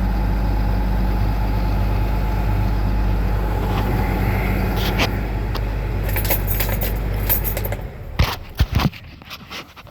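Caterpillar 3126 inline-six diesel engine idling steadily, then cutting out about eight seconds in. A few sharp clicks and knocks follow, with some light jingling just before the engine stops.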